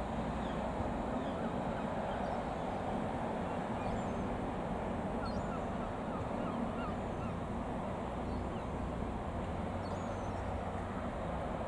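Piper PA-28-236 Dakota's six-cylinder Lycoming piston engine and propeller running at a steady speed. A few short high chirps come through about halfway in.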